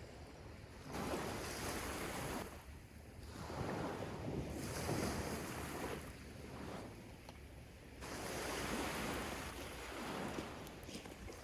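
Sea waves washing up on a sandy beach, the noise swelling and falling back in three long surges.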